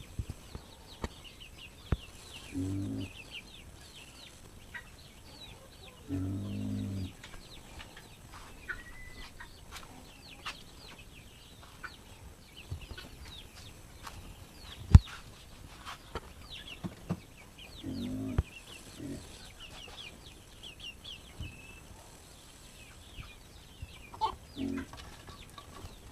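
Chickens clucking in a few short low calls over steady chirping of small birds, with scattered knocks and one sharp knock about halfway.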